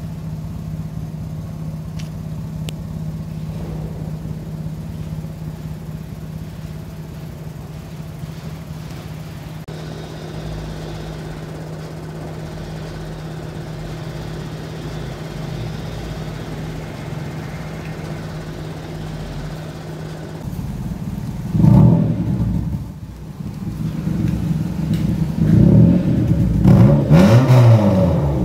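Nissan sedan's engine idling steadily, then revved several times in the last third, the pitch rising and falling with each rev.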